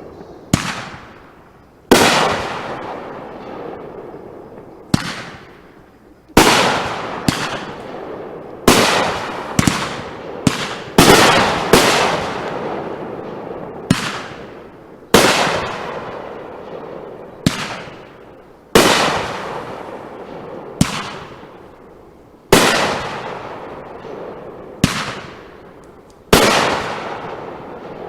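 Consumer aerial fireworks going off in a run of about twenty sharp bangs, spaced a second or two apart and sometimes close together. Each bang trails off over a second or so.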